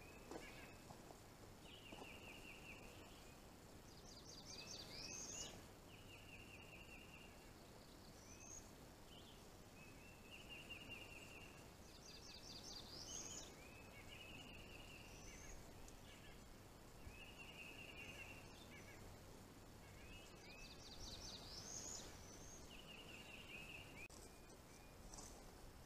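Faint birdsong: short, rapid trilled phrases repeated every few seconds, some higher and some lower in pitch.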